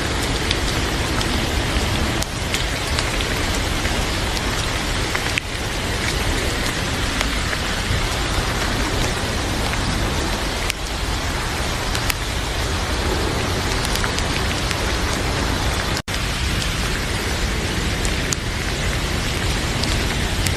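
Heavy rain falling steadily, with scattered sharp crackles from a wood fire in a fireplace. The sound cuts out for an instant about sixteen seconds in.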